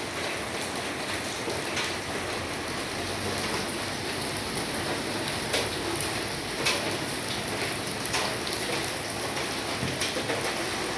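Steady rain falling, an even hiss with scattered sharper drop taps, a couple of them louder past the middle.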